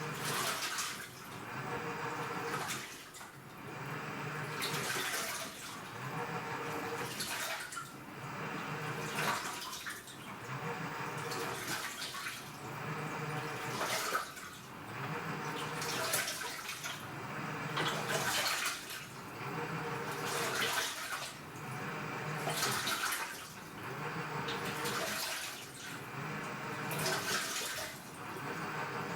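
AQUA top-loading washing machine agitating: the direct-drive inverter motor turns the pulsator back and forth, each stroke bringing a water swish and a motor whir, reversing about every two seconds.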